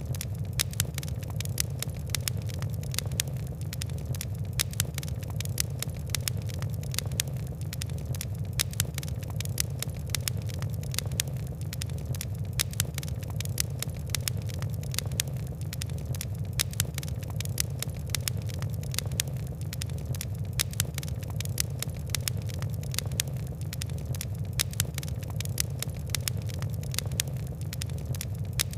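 Fireplace fire crackling, with many small irregular snaps and ticks over a steady low rumble of burning.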